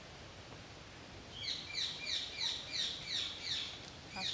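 A songbird singing a fast series of short, high, downward-slurred notes, about three a second, starting a little over a second in, over faint outdoor woodland background noise.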